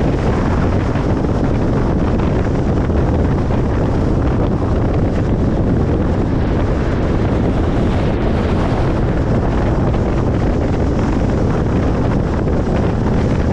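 Steady road noise of a car on the move: an even, unbroken rush of tyre rumble and wind, heaviest in the low end.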